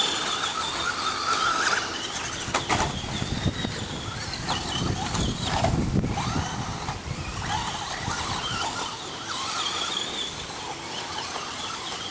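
Electric radio-controlled stadium trucks running on the track: high motor whine rising and falling with the throttle over tyre noise, with a sharp knock about two and a half seconds in.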